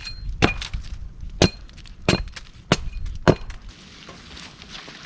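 Wood being chopped with a bladed tool: about five sharp, splintering strikes, some with a brief metallic ring, stopping about three and a half seconds in.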